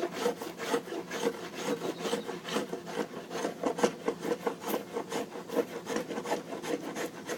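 A small hand tool shaving and rasping the wooden front stem of a canoe in quick repeated strokes, a few per second, cutting in the bevel that the planks will sit flush against.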